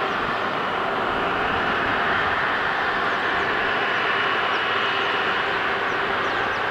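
Widebody jet airliner engines running: a steady roar with a thin, high, steady whine over it.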